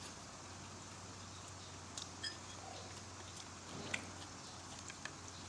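Quiet eating sounds from someone working through a bowl of rice porridge: a few soft, scattered clicks and mouth noises over a faint steady hum.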